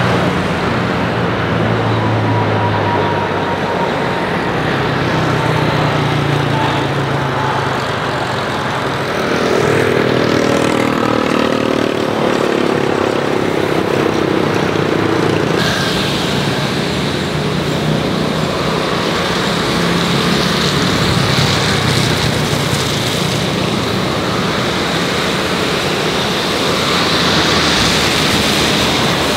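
Jet airliner engines running, a loud, steady roar that shifts in character about halfway through.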